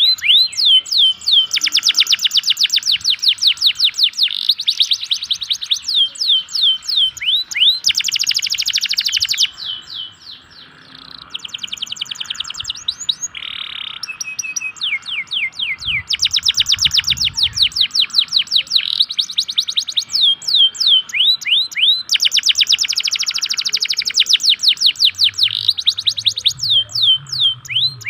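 Local-type domestic canary singing: long, fast trills of repeated chirps mixed with rising whistled notes, phrase after phrase, with a brief pause about ten seconds in.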